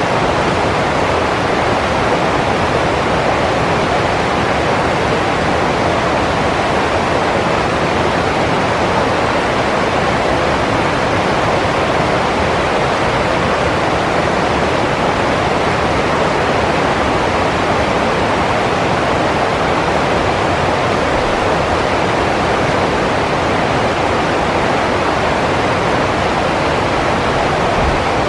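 Rushing water, a steady and unbroken roar of a fast stream or waterfall.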